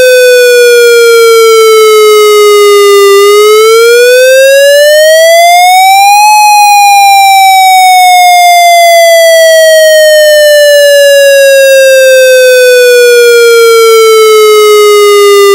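Federal MCP electronic wail siren signal, fed straight from the generator rather than through a speaker: a loud, buzzy tone that sinks slowly, sweeps up over about three seconds, then glides slowly back down for about nine seconds before cutting off abruptly at the end.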